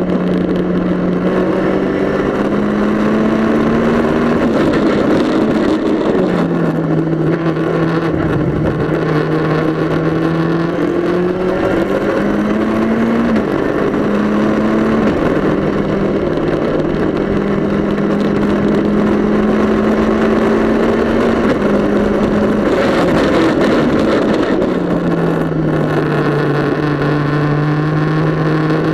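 Mitjet race car's engine running hard, heard from inside its stripped, roll-caged cockpit over steady wind and road noise. The engine note climbs and then drops sharply several times through the lap.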